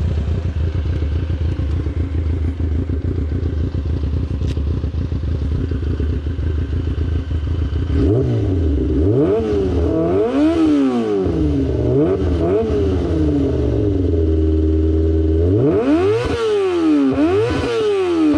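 2003 Yamaha R6's 600cc inline-four idling steadily, then revved with repeated throttle blips from about eight seconds in. Each blip rises and falls in pitch, with a brief held rev in the middle and more blips near the end.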